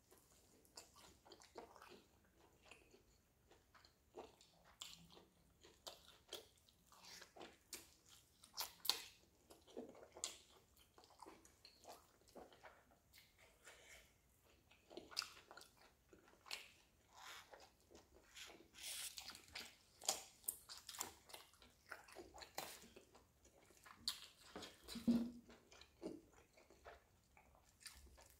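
Close-miked chewing and biting of roasted chicken: a run of short, irregular mouth smacks and bites as the meat is eaten off the bone.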